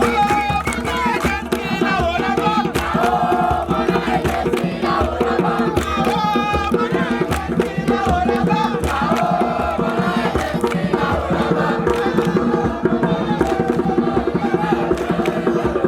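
Voices singing and chanting together over steady, fast percussion.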